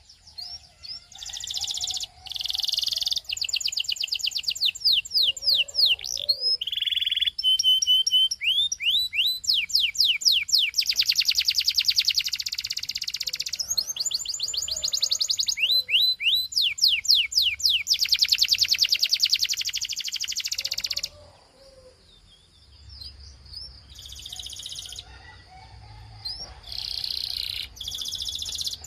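Male canary singing: long runs of fast, evenly repeated trills and rolls, broken by quick rising whistled sweeps. The song breaks off about two-thirds of the way in and comes back in shorter phrases near the end.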